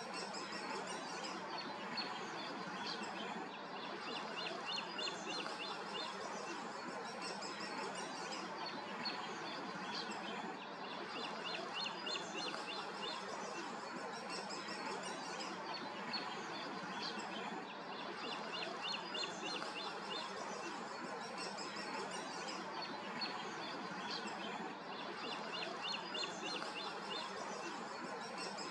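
Songbirds singing, with one bird repeating a short trilled phrase every few seconds, over a steady background hiss.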